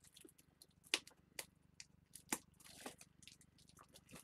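Trading cards and plastic card holders being handled: scattered faint clicks and light crinkles, with a brief soft rustle partway through.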